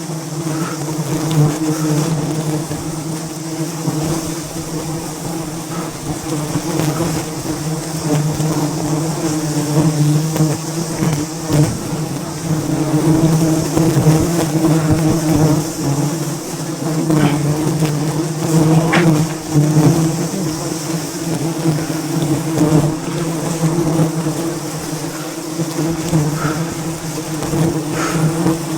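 A swarm of wild honeybees buzzing around their hive, a steady loud drone, with a few faint knocks.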